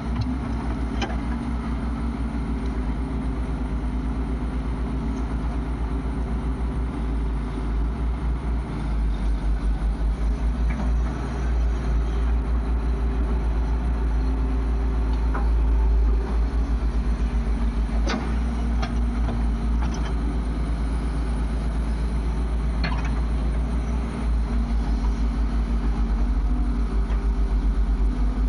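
Heavy diesel engine running steadily with a low, pulsing throb, with a few short sharp clanks over it.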